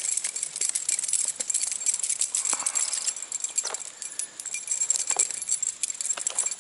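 A hooked brown trout being played and reeled in: a fast, dense rattling and clicking that goes on steadily, dipping a little past the middle.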